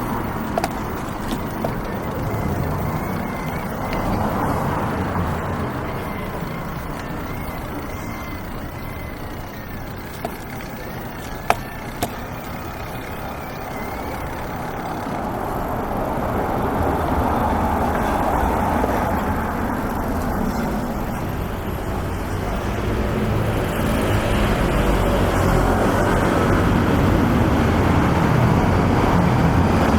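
City road traffic: vehicles passing on a busy street, the noise swelling as they go by, loudest near the end, with a sharp click a little before the middle.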